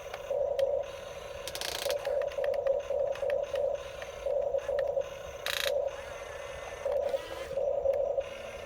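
Small geared electric motors of a remote-control construction toy whirring in short, uneven spurts at one fixed pitch, as the controls are jogged, with two brief rasping scrapes.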